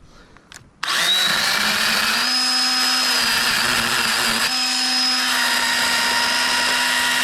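Echo electric chain pruning saw starting suddenly about a second in and running steadily with a high whine, cutting through a limb.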